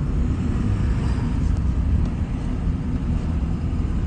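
A car driving along: a steady low rumble of road and engine noise, heard from inside the car.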